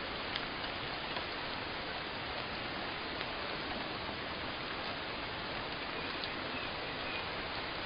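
Steady rain falling, an even hiss with a few faint separate drip ticks.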